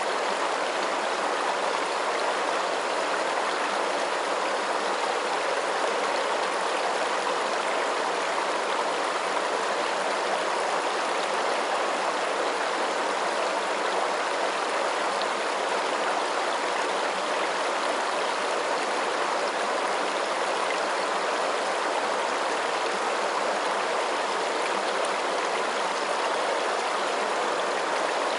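Running water rushing in a steady, unbroken hiss, like a stream or small cascade, with no changes or separate splashes.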